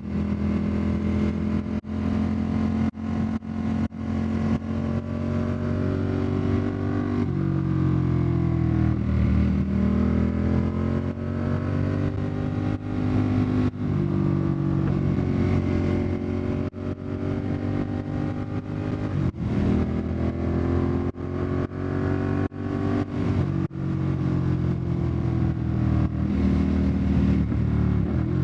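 Ducati Monster 1200's V-twin running loud through an Austin Racing exhaust while riding, the engine note falling and rising several times as the revs change, with many brief dips in level.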